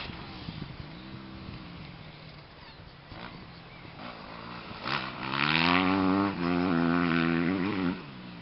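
2009 Yamaha YZ250F single-cylinder four-stroke motocross engine, revving up and down at moderate level, then about five seconds in getting much louder and climbing in pitch for about three seconds, with a short break in the middle, before dropping away suddenly near the end.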